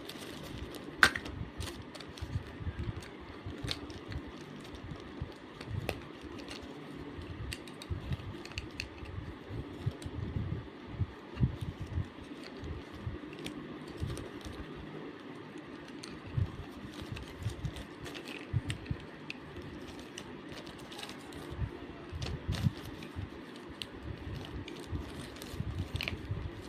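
Irregular clicks and taps with soft thumps, a few sharper knocks among them, over a steady low hum: close-up handling noise of small objects being moved and tapped.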